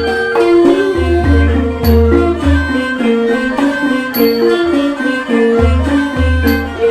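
Thai classical ensemble playing a homrong (overture): pitched melodic instruments carry a busy, steady line over repeated deep drum strokes.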